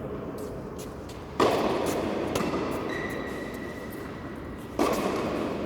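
Tennis ball struck by a racket twice, about three and a half seconds apart, each hit sudden and trailing off in a long echo, with a fainter knock between them.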